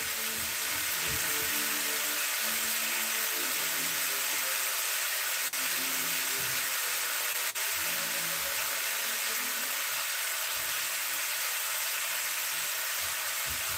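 Chicken and vegetable stir fry sizzling steadily in a hot wok, left unstirred. The hiss briefly cuts out twice, about five and a half and seven and a half seconds in.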